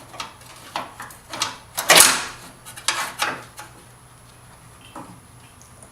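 A series of knocks and clunks from car parts being handled in the engine bay, the loudest about two seconds in.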